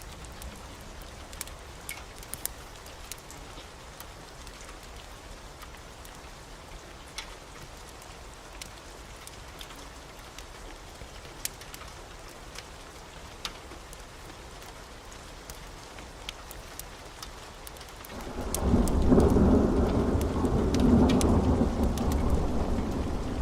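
Steady heavy rain with scattered sharp ticks, then about 18 seconds in a rolling thunder rumble swells up suddenly and becomes the loudest sound.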